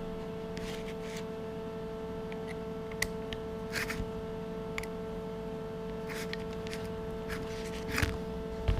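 A steady hum of several fixed tones, with a few light clicks and short rustles scattered through it.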